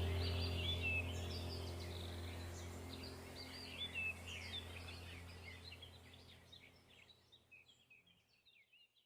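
Small birds chirping and singing over a low steady hum. The whole soundtrack fades out gradually, leaving silence from about two-thirds of the way through.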